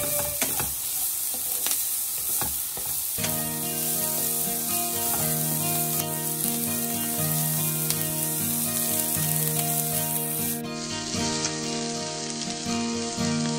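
Diced onion and carrot sizzling as they fry in a non-stick pan, with the wooden spatula scraping and clicking against the pan as it stirs. Background music with held notes comes in about three seconds in.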